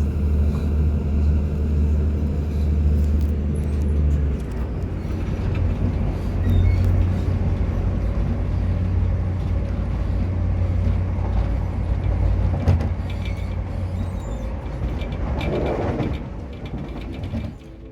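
Passenger train running, heard from inside the carriage: a steady low engine drone that changes about four seconds in, over the continuous rumble of the moving train. The sound drops away near the end.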